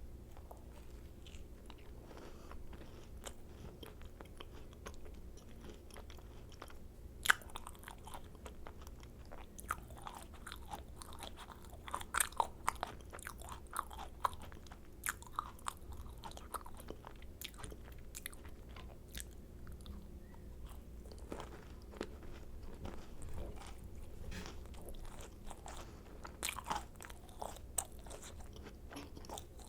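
Close-miked eating of macarons: bites crackle through the crisp shells, followed by soft chewing. The crackles come in scattered bunches, the sharpest a single crack about seven seconds in, over a faint steady hum.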